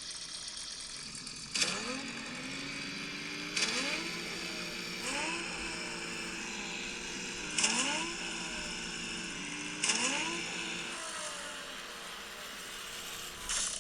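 LEGO Technic 42109 Top Gear rally car driven by app: its electric drive motors whine up in pitch five times as it accelerates, each rise starting with a sharp click, over a steady gear rattle.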